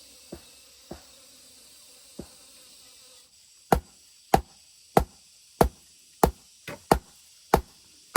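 Insects buzzing with a few faint knocks. Then, from about three and a half seconds in, loud regular chopping strikes, about one every 0.6 seconds.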